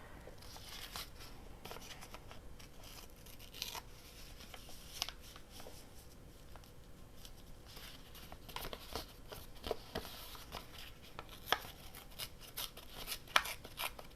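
Paper being torn by hand in small strips along the edges of a tag, heard as scattered short, crisp rips and crackles with paper-handling noise.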